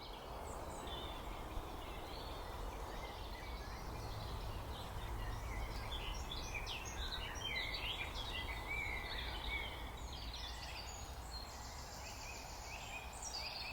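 Songbirds singing, a busy mix of short chirps and trills that thickens a few seconds in, over a steady outdoor hiss and a low rumble.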